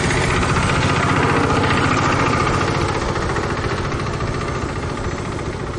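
Strong wind buffeting the microphone, with the whine of an electric RC plane's motor and propeller in the air, swelling about two seconds in and then fading.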